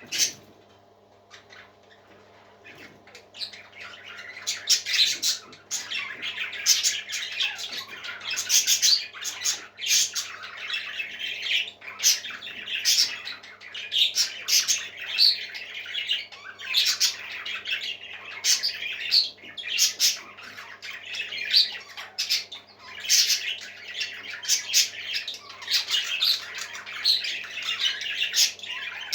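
Parrots squawking: a quick run of harsh, rasping calls, about one or two a second, starting a few seconds in after a sharp click.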